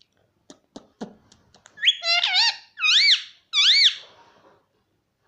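Indian ringneck parrot giving a run of four loud, high-pitched calls, each rising and falling in pitch, after a few sharp clicks about half a second to a second in.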